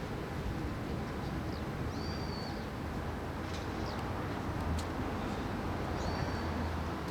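Small birds calling with short, high chirps, a few seconds apart, over a steady low rumble.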